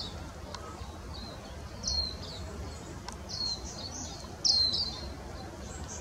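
Eastern spinebill giving short, high piping calls, several scattered notes with the loudest a little over halfway through, over a steady low background rumble.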